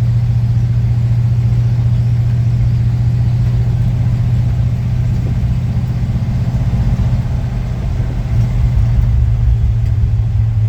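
1952 Ford F-2 pickup running on the road, its engine a steady low drone that eases off briefly about seven seconds in and then picks up again.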